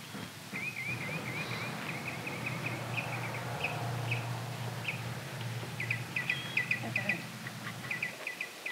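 Small songbirds chirping: a quick warbling run of high notes about half a second in, then clusters of short, sharp chirps. A low steady hum lies under them and stops near the end.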